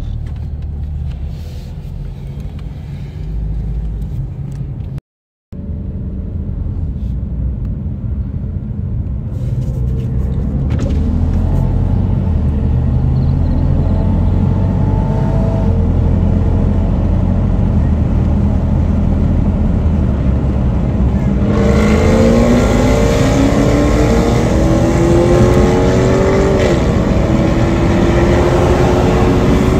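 Car engines cruising, then accelerating hard from a rolling start: a deep drone that builds, with the engine pitch climbing steadily through the second half and dipping at a gear change near the end before climbing again. The sound cuts out for a moment about five seconds in.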